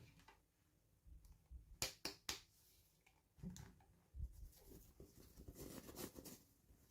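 Faint handling noises from unboxing toy packaging: three sharp clicks about two seconds in, then soft rustling.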